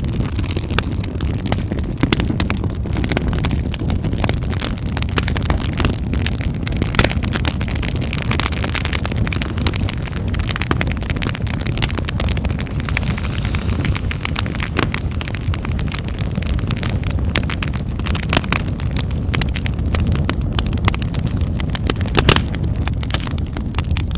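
Fire in a fireplace crackling, with frequent sharp pops over a steady low rumble; one louder pop near the end.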